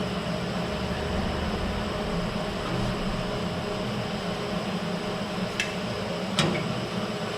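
Steady workshop background hum, like a running fan or air handler, with two sharp clicks close together near the end, the second louder, as of a small metal part or tool being handled.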